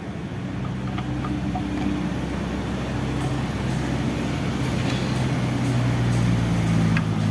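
A motor running steadily with a low hum that shifts pitch slightly now and then and slowly grows louder.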